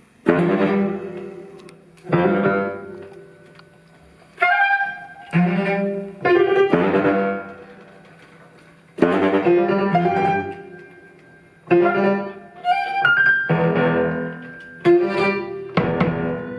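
Live instrumental ensemble music with low bowed strings: a series of sharply accented chords, each dying away over a second or two before the next.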